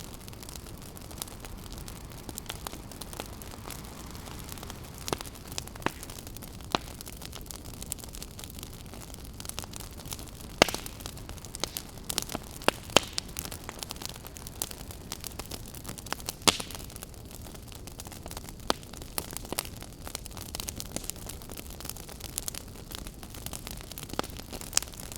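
Wood campfire crackling, with frequent sharp clicks and a few louder pops, over a steady rushing background.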